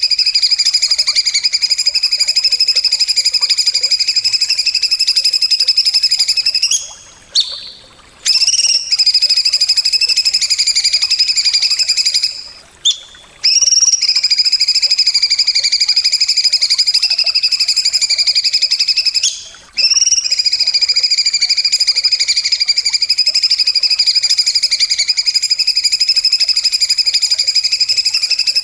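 A loud, fast buzzing trill held at one steady high pitch, played as a tutor recording for songbirds. It breaks off briefly three times, with a few short stuttering notes, and starts again each time.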